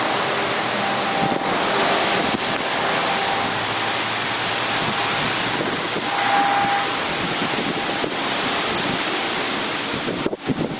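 Steady, loud rushing noise of storm wind, dipping briefly just before the end.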